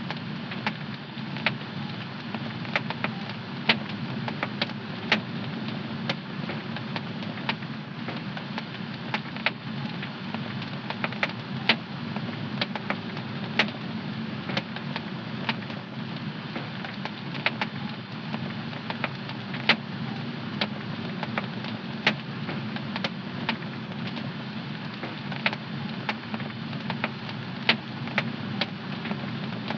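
Wood fire crackling in a home fireplace: a steady low rush of burning flames with sharp, irregular pops and snaps, about one or two a second.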